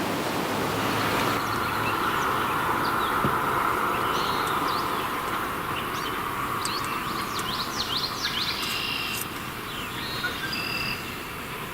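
Forest ambience: small birds chirping over a steady rushing background noise, with a quick run of downward-sweeping chirps about two-thirds of the way through. The background drops a little near the end.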